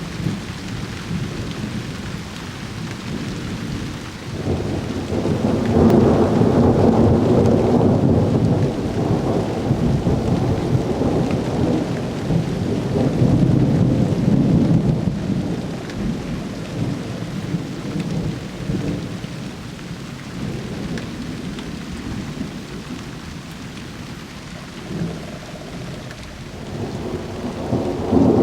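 Steady rain falling while a long rolling rumble of thunder swells about four seconds in, surges again midway and slowly dies away; another peal of thunder begins right at the end.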